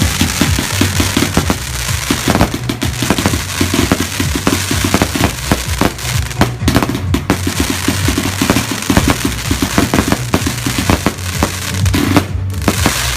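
Fireworks bursting and crackling in rapid, dense succession over electronic dance music with a heavy bass beat.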